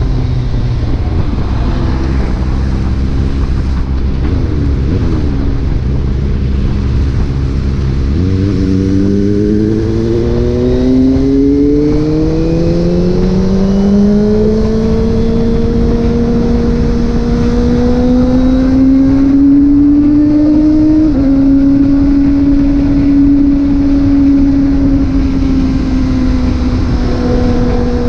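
Motorcycle engine under way on the road, with a deep rumble at first. About a third of the way in, the engine note climbs steadily as it accelerates, then settles into a near-constant cruise with a small step in pitch about two-thirds of the way through.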